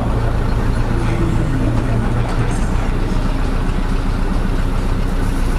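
Tractor diesel engine running steadily with a deep drone, its pitch shifting about two and a half seconds in.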